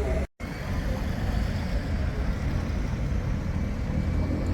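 Bombardier Flexity 2 light rail tram running, a steady low rumble with a faint high tone. The sound cuts out completely for a split second near the start.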